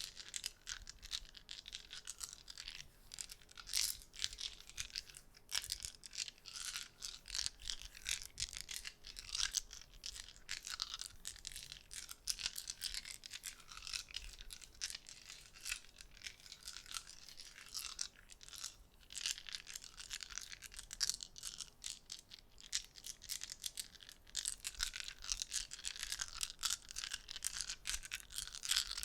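Rapid soft clicking and crackling, many small clicks a second, from small objects handled for ASMR.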